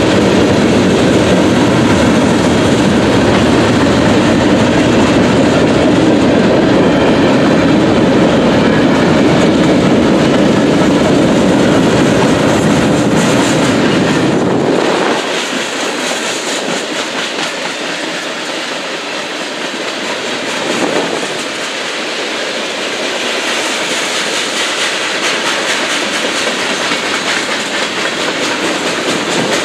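Freight cars (covered hoppers and boxcars) rolling past at a grade crossing, a steady rumble and clatter of steel wheels on the rails. About halfway through the deep rumble drops away abruptly, leaving a lighter, higher clatter.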